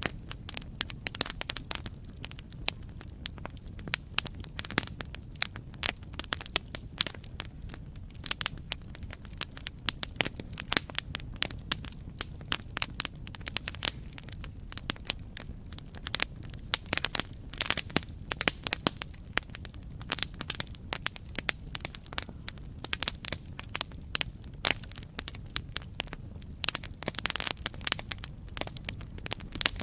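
Campfire burning and crackling: dense, irregular pops and snaps of burning wood over a steady low rumble of the flames.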